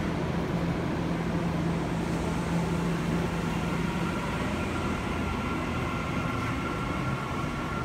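Tokyu Meguro Line electric train pulling out of the platform and picking up speed past the platform doors. Its cars give a steady rumble, and a thin whine sets in about halfway.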